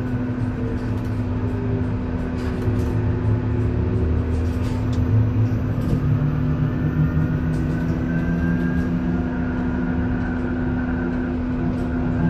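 Isuzu Erga EV electric bus running, heard from inside the cabin. Under a low road rumble there is a steady hum, and a thin whine rises and then falls in pitch about halfway through as the bus changes speed.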